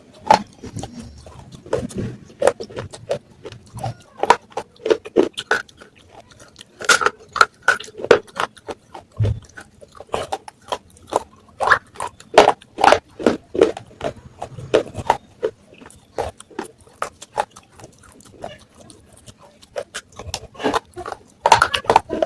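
Pieces of baked clay matka (earthen pot) crunched and chewed close to the microphone: an irregular run of sharp cracks and crumbles, thinning out for a few seconds before picking up again near the end.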